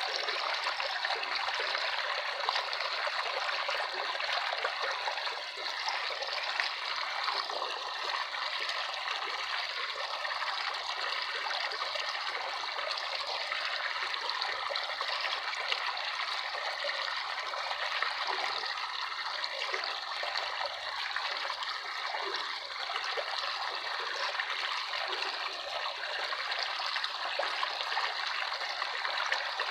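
Running water trickling steadily, an even and unbroken flow.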